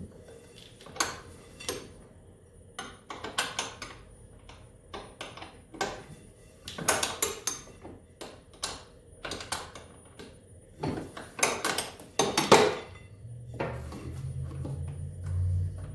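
Hand tools and metal parts clinking and clattering in irregular bursts of knocks, the loudest near the end, during work on a snowmobile engine. A steady low hum comes in near the end.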